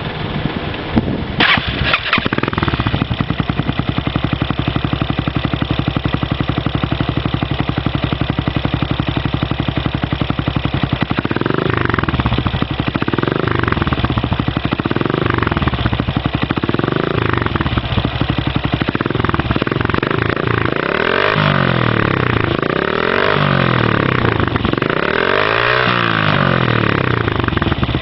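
Single-cylinder four-stroke engine of a Chinese Honda Ape copy running through an RPM aftermarket exhaust. It idles steadily at first, then is blipped about five times from roughly halfway through, and then revved harder three times, up to about 8000 rpm.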